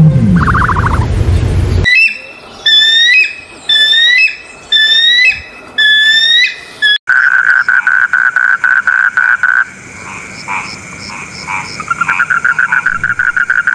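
A tree frog calling with a rapid, even, pulsed trill from about halfway through. The trill breaks into separate ticks, then picks up again near the end. Before it come two other animal sounds: a low call in the first two seconds, then six short, rising high calls about a second apart.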